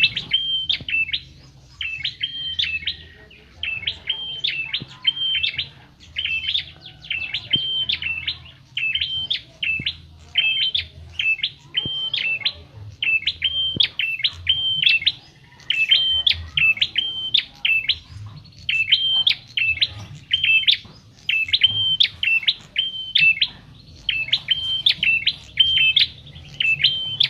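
A prenjak kepala merah (red-headed prenjak) singing persistently: short phrases of sharp, high chirps, repeated about once a second with brief gaps between them. A faint steady low hum runs underneath.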